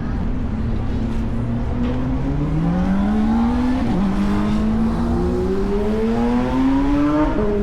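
A vehicle engine accelerating, its pitch climbing steadily, dropping sharply about four seconds in and again near the end as it changes gear, then climbing again, over a steady low rumble.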